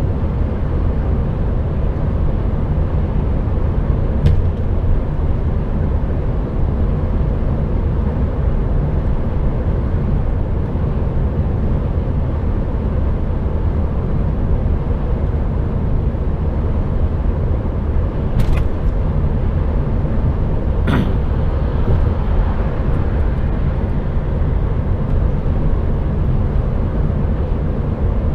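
Cab noise of a moving HGV: the truck's diesel engine and road noise make a steady low rumble, with three brief clicks.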